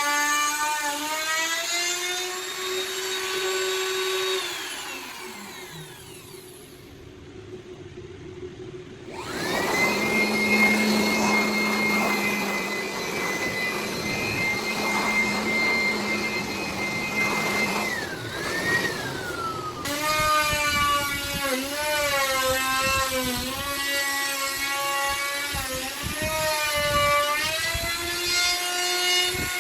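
Electric wood router's motor whine, used freehand on a door. It winds down about five seconds in and starts again a few seconds later, running at a steady pitch. Later its pitch dips and wavers again and again as the bit cuts into the wood under load.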